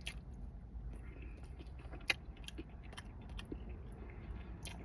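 A person chewing food, with small clicks of a utensil against a takeout container, one sharper click about two seconds in, over a steady low rumble.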